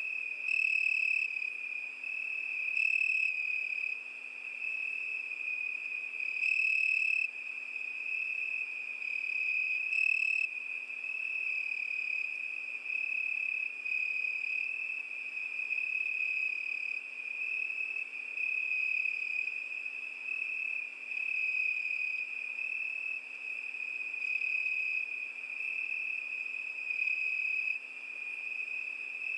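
Crickets singing a continuous high, even trill. A louder nearby cricket adds short spells of chirping four or five times in the first ten seconds or so.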